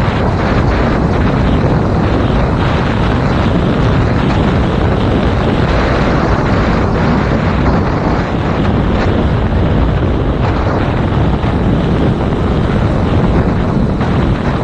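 Loud, steady wind noise buffeting a GoPro Hero 5 Black's microphone on a moving motorcycle, a 2019 Yamaha MT-07. The wind noise buries the engine sound.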